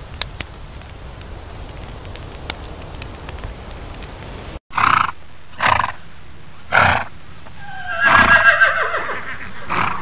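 Steady rustling with scattered crackles, then a horse blows three short snorts and neighs, a loud whinny that falls in pitch and trails on.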